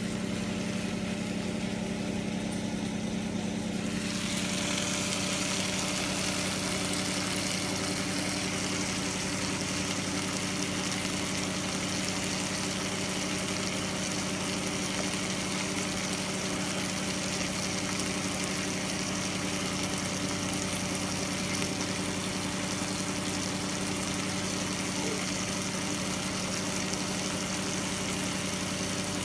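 Porterhouse steak and Brussels sprouts sizzling in a ridged grill pan, the sizzle starting about four seconds in, over a steady electric hum.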